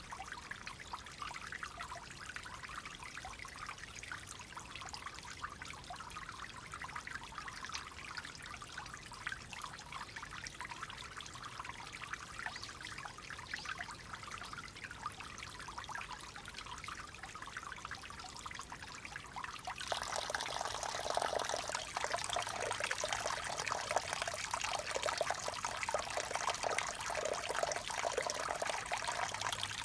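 Clear water flowing gently and trickling in a steady hiss. About twenty seconds in it suddenly becomes louder and fuller-toned.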